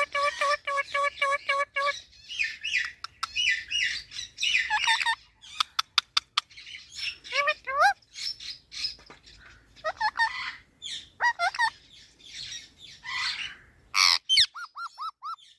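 Parrot calling in quick, varied chirps, whistles and squawks: a rapid train of repeated notes at the start, a few sharp clicks midway, and whistles sliding up and down, with a short string of quick rising notes near the end.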